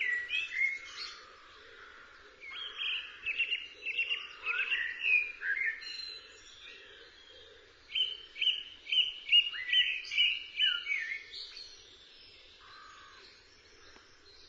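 Songbird singing outdoors: runs of quick, varied chirping notes, with a long run about two seconds in and another about eight seconds in, and short pauses between phrases.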